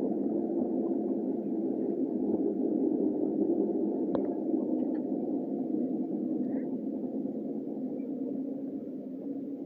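Passenger train running, heard from inside the carriage: a steady rumble of wheels on the track that gets quieter over the last few seconds, with one sharp click about four seconds in.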